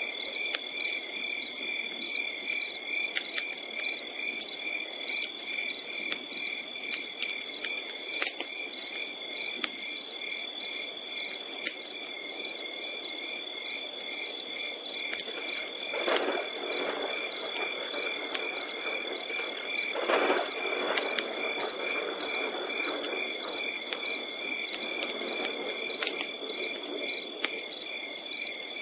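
Crickets chirping in a steady, even rhythm of about three to four pulses a second, with a campfire crackling in sharp, scattered pops. Twice a soft rush of noise swells up and fades.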